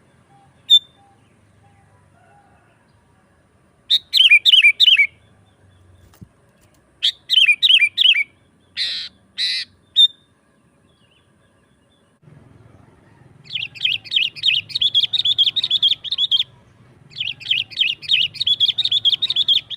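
Sooty-headed bulbul (kutilang) singing. Short phrases of quick falling notes and two brief harsh calls come first, then, past the middle, two long runs of rapid chattering notes.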